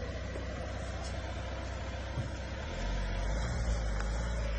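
Steady motor-vehicle noise with a low engine hum, growing a little louder about three seconds in.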